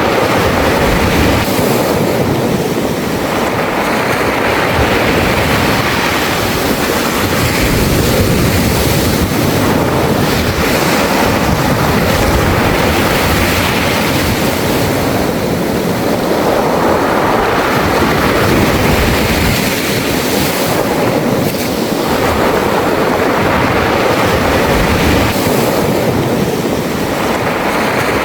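Sea waves washing in and out over a beach of smooth round pebbles (mongdol), the pebbles rolling and rattling in the surf. A continuous rush of water that swells and ebbs every several seconds.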